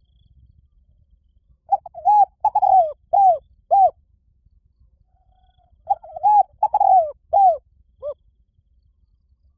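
Spotted dove cooing: two phrases of about five arching, hoarse coo notes each, the second phrase starting about four seconds after the first and ending on a short, higher note.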